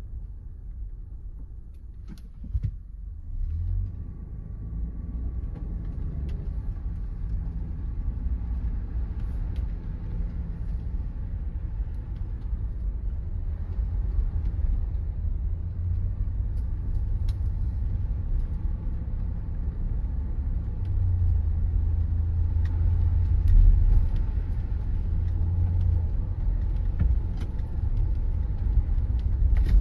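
Car driving: a steady low rumble of engine and road noise that grows gradually louder.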